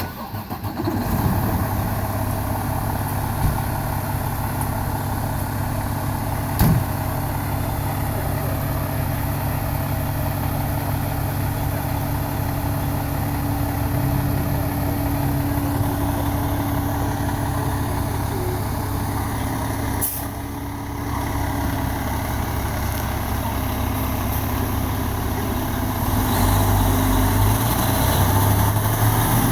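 Fire engine's diesel engine running steadily, coming up quickly in the first second and getting louder near the end, with one sharp knock about seven seconds in.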